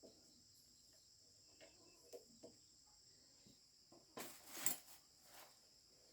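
Crickets chirping in a steady high drone, with a few light clicks and a short noisy scrape a little past four seconds in.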